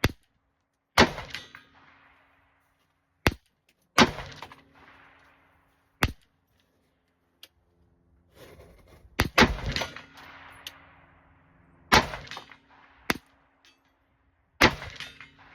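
Stag Arms AR-15 pistol fired with an aftermarket muzzle brake: a string of about nine shots at uneven gaps of one to three seconds, two of them close together near the middle. Each shot is really loud and leaves a fading echo.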